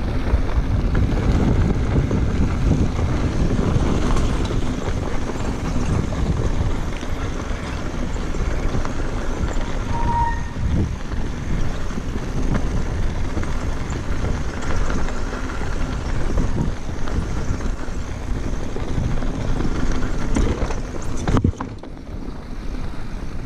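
Wind buffeting the microphone while riding a mountain bike down dirt singletrack, with the rumble and rattle of the bike over the trail. The noise eases a couple of seconds before the end.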